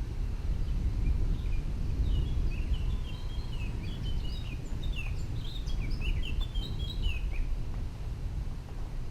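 Birds chirping in a quick run of short, high calls for several seconds, fading out near the end, over a constant low rumble.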